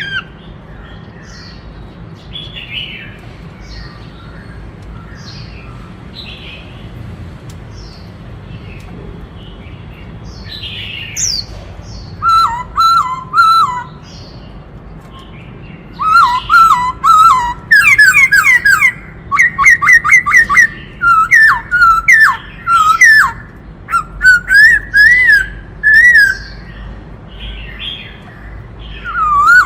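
White-cheeked laughingthrush singing: scattered faint calls at first, then from about twelve seconds in, loud bursts of rapidly repeated, quickly rising and falling notes.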